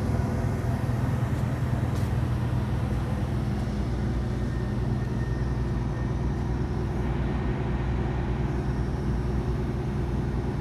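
A large engine running at a steady speed: a continuous low, even drone with a constant hum.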